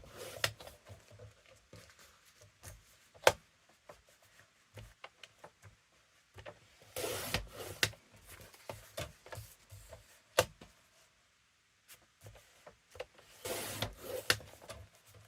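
Paper trimmer cutting sheets of paper: the blade slides along the rail in rasping strokes of about a second each, near the start, in the middle and near the end. Sharp clicks and taps from the trimmer and the paper being handled come between the cuts, the loudest about three seconds in.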